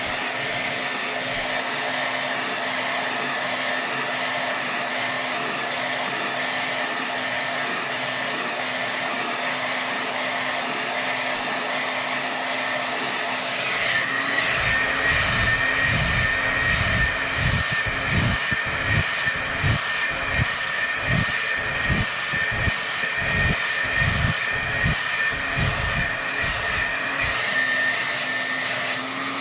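Hair dryer running on its maximum setting: a steady rushing of air with a constant whine. About halfway through the whine shifts up slightly and grows stronger, and uneven low rumbling pulses come in, fading out shortly before the end.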